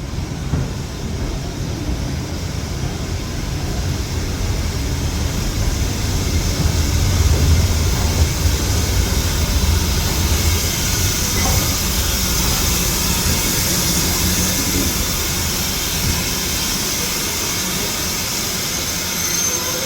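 Steam train pulling into the station platform. A low rumble builds and is loudest about seven seconds in, then gives way to a steady high hiss.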